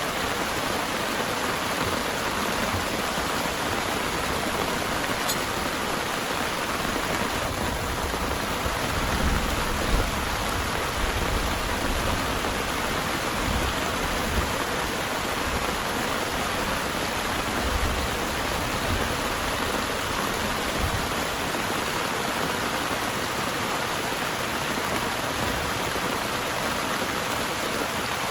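Heavy rain pouring steadily, a dense even hiss, with a few brief low rumbles around the middle.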